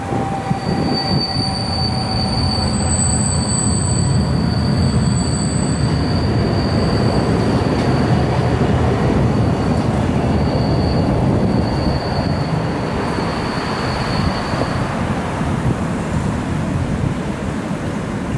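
Double-deck NS electric passenger train passing over a road overpass: a loud, steady rumble of wheels on rails. A thin, high wheel squeal runs through most of the pass and fades out about fifteen seconds in.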